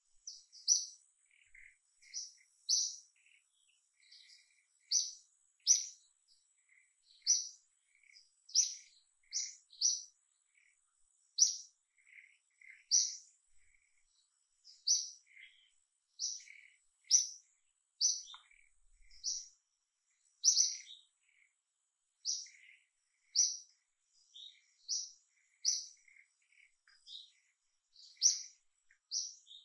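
A bird calling over and over in short, high chirps, roughly one a second at an uneven pace, with fainter, lower chirps in between.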